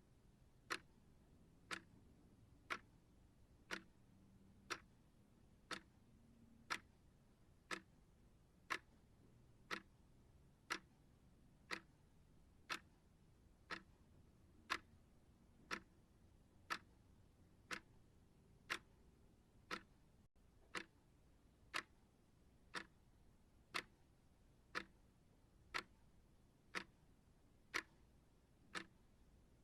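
Steady ticking of a clock-style timer, one sharp tick each second.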